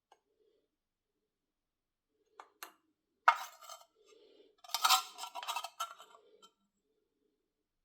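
Small hard objects being handled: two light clicks, then a sharp clink a little after three seconds in, and a second longer run of clinking and clattering about a second later.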